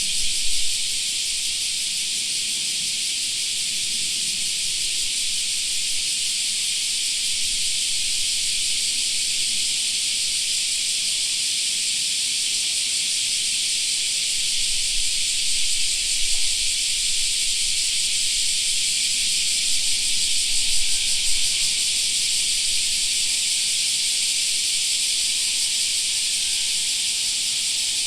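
Chorus of cicadas droning in a steady, unbroken high-pitched hiss, with a few brief soft low bumps about halfway and two-thirds of the way through.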